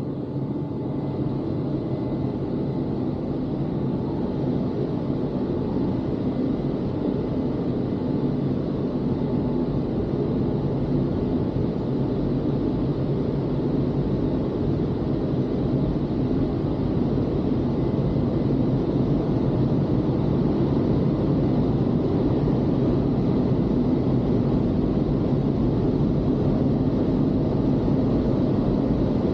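Automatic car wash machinery running: a steady, loud rushing noise with a low hum, which starts abruptly just before and slowly grows a little louder.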